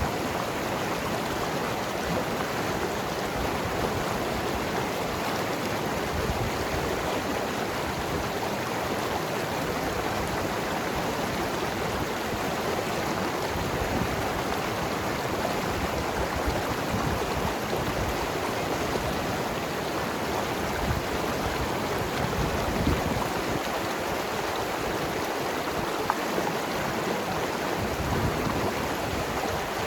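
Mountain river flowing and gurgling over rocks: a steady, even rush of water with small irregular splashes.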